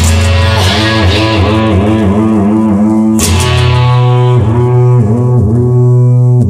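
Instrumental rock music: electric guitar notes bending and wavering over a steady bass note, with a cymbal crash at the start and another about three seconds in.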